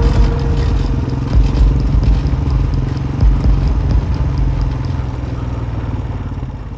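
ATV engine running at low speed while pulling a team of harnessed dogs, with light rattling from the front rack and the steel roading bar.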